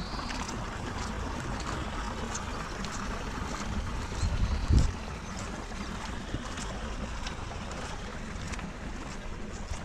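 Steady rain, with scattered sharp drop taps over a hiss, and low wind rumble on the microphone. A brief low thump about halfway through is the loudest moment.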